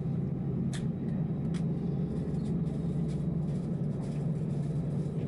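Steady low rumble inside an Airbus A319-111's passenger cabin, from its engines and air system, with two light clicks about a second in.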